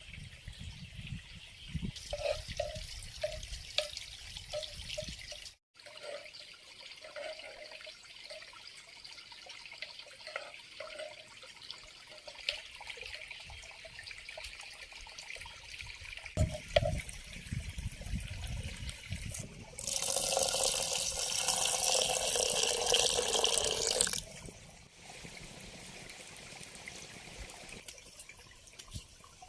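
Water trickling and dripping, with short plopping drips, then a few seconds of louder running or pouring water about two-thirds of the way through.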